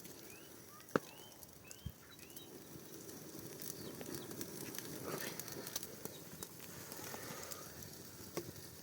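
A few short rising bird chirps in the first second or so, over a steady low rustling background with scattered small clicks and one sharp knock about a second in.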